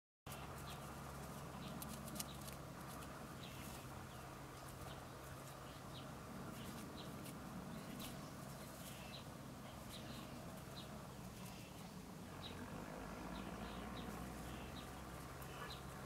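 Faint, short, high bird chirps repeating about twice a second over a low steady hum.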